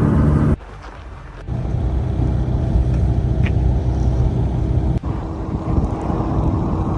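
Steady road and engine noise of a moving car, heard from inside. The sound cuts out abruptly about half a second in and returns a second later.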